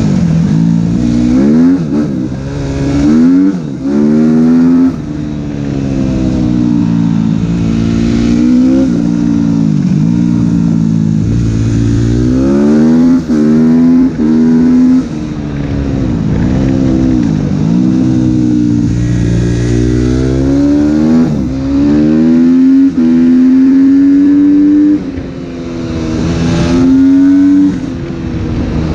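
Suzuki RM-Z250's single-cylinder four-stroke engine revving through an open Akrapovič exhaust. The pitch climbs and drops again and again, with a few abrupt cuts in throttle.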